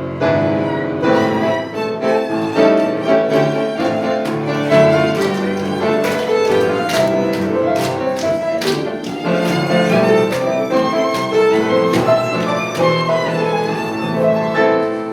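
Instrumental music with a violin carrying the melody over accompaniment, without singing.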